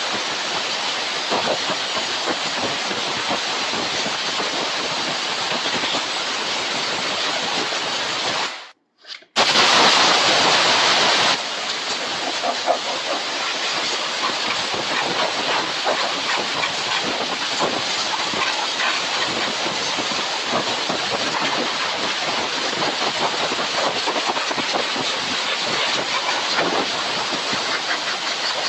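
Compressed air blasting from an air blow gun onto a refrigerator's condenser coils, a steady loud hiss. It cuts off briefly about nine seconds in, then comes back louder for about two seconds before settling to its earlier level.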